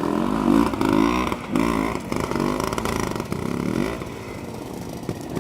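Trials motorcycle engine revving in short blips, the pitch rising and falling about five times as the rider picks a way over obstacles in a section.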